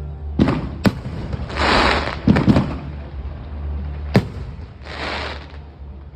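Fireworks going off: five sharp bangs over about four seconds, the loudest a quick double bang about two and a half seconds in, mixed with two hissing bursts of about half a second each, one near two seconds in and one about five seconds in.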